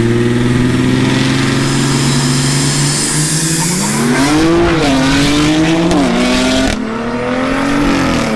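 Turbocharged car engine under full throttle in a roll race: the pitch climbs slowly as the turbo spools, then rises steeply, falls back twice at gear shifts, and the throttle is lifted near the end.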